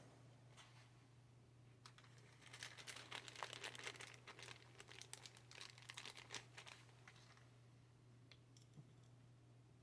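Faint crinkling and rustling with many small ticks from about two and a half to seven seconds in, like plastic packaging or parts being handled, over a steady low hum.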